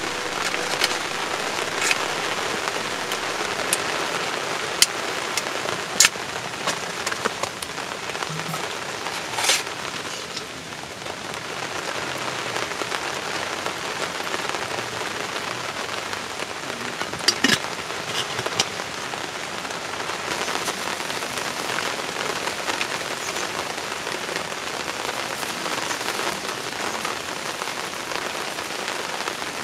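Heavy rain falling steadily, with a scatter of sharper single drops or taps standing out above it, the strongest about six seconds in and again at about nine and seventeen seconds.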